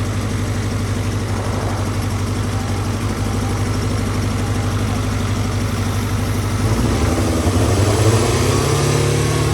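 Motorcycle engine idling while a vacuum leak at one of the intake boots is being tracked down. About seven seconds in, the idle rises and gets a little louder for a couple of seconds.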